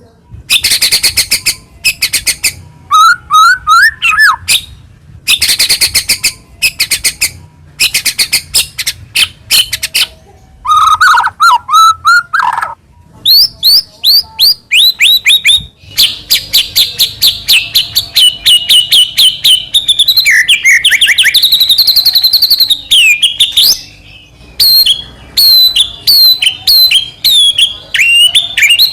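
White-rumped shama (murai batu) singing hard: a loud, varied song of fast rattling runs of repeated notes broken by short whistled phrases. Brief pauses separate the early bursts. From about halfway through, the song runs on without a break as a long stream of rapid chirps.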